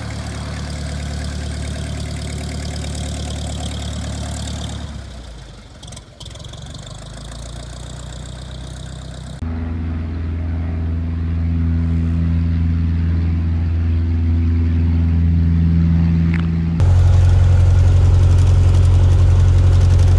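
Small propeller airplane's piston engine running with a steady low drone. It fades briefly about a quarter of the way in, then gets abruptly louder in two steps, about halfway and near the end.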